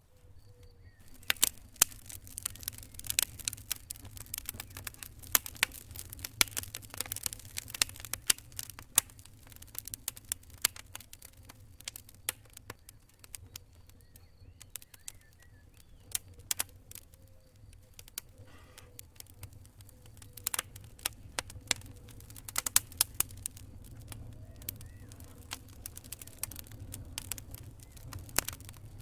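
Wood campfire crackling, with irregular sharp pops and snaps over a low steady rumble of the burning fire. The pops come thickest in the first few seconds and again past the middle.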